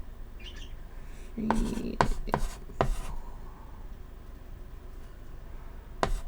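Chalk writing on a chalkboard: a handful of quick, scratchy strokes between about one and a half and three seconds in, then a quieter stretch, and more strokes near the end.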